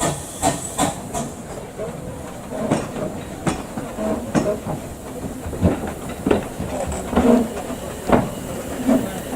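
Steam train on the move: irregular sharp clanks and clicks of wheels and couplings over a steady hiss of steam.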